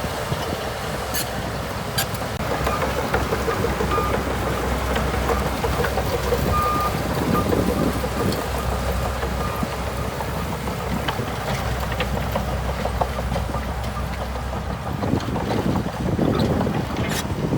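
Bulldozer's diesel engine running steadily, with scattered metallic clanks and knocks and a few short high squeaks, and the engine growing louder and rougher in the last few seconds.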